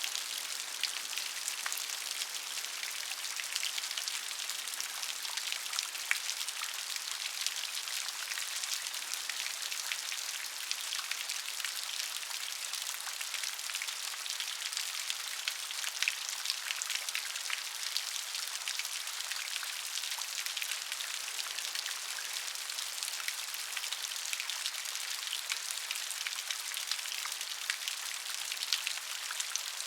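Steady rain, a dense patter of drops with many small sharp ticks.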